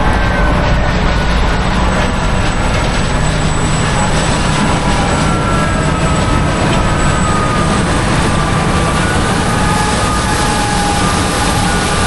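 Heavy harvest machinery running steadily under load, with faint whines that drift slowly lower in pitch.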